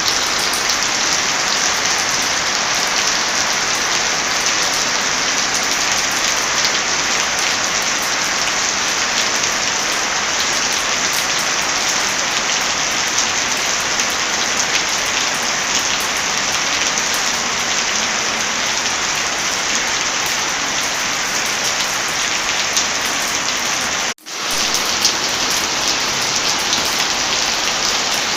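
Heavy rain falling steadily, with a fireplace crackling. A few seconds before the end the sound cuts out for an instant and fades straight back in, the join of a looped track.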